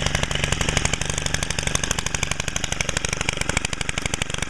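Stihl FS90R string trimmer's small 4-MIX engine idling steadily with an even, rapid firing beat. It runs with its muffler screen removed and its idle speed set a little lower, which makes it sound a little louder and meaner.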